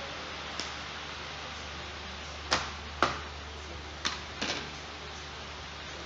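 Five sharp clicks and knocks of hard objects being handled, the loudest two about halfway through, over a steady low hum and hiss.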